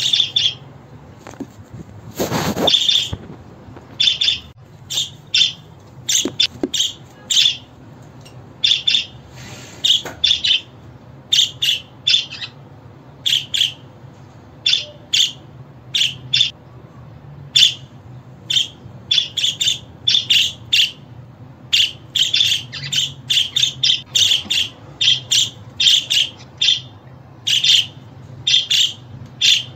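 Budgerigars chirping: a stream of short, sharp calls, sometimes several a second, with one longer, fuller squawk near the start.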